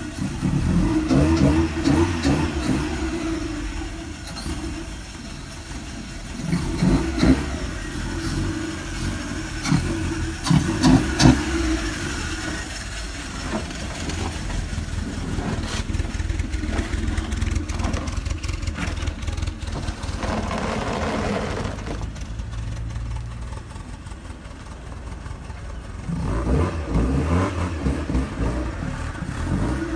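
Volkswagen Mk1 Golf engine and exhaust being revved several times, with loud surges in the first few seconds, around seven and eleven seconds in, and again near the end, and steadier running between them.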